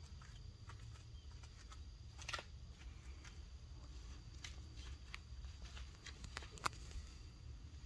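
Faint, irregular clicks and light rustles over a low steady rumble, with a sharper click a little over two seconds in and another near the end.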